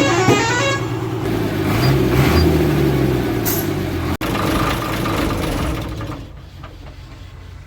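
Ashok Leyland bus's diesel engine running, with the horn cutting off under a second in and a brief rev about two seconds in; the engine sound falls away about six seconds in.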